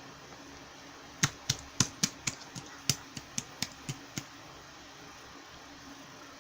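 A quick, uneven run of about a dozen sharp clicks, starting about a second in and stopping about three seconds later, over a faint steady hiss.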